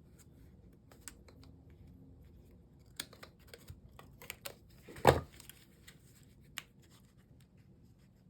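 Light clicks and paper handling as a Stampin' Seal adhesive tape runner tacks down die-cut card pieces, with one louder thump on the table about five seconds in.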